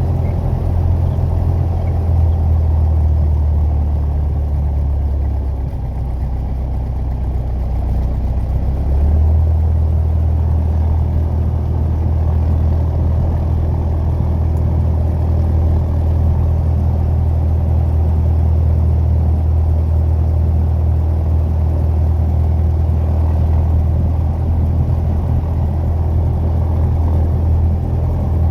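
Piper PA-28 Warrior light aircraft's four-cylinder piston engine and propeller droning steadily. The drone eases slightly about six seconds in and picks back up a few seconds later.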